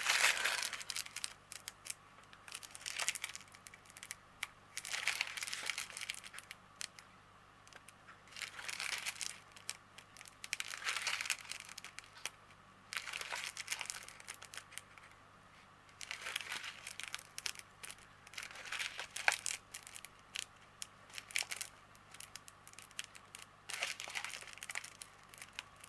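Small plastic bags of diamond painting drills being handled and crinkled, in irregular bursts with sharp clicks between them.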